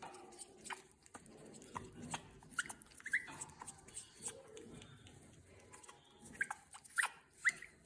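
African grey parrot chewing and biting at something with its beak, giving irregular sharp clicks and small crunches over a soft rustle, with several short upward squeaks near the middle and end.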